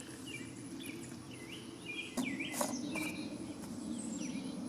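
A bird chirping over and over in short hooked notes, about two a second, over a low steady rush, with a few sharp knocks around the middle.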